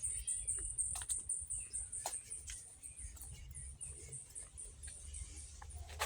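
A high-pitched chirp repeated evenly about four times a second, fading out about five seconds in, over scattered faint clicks and a low rumble.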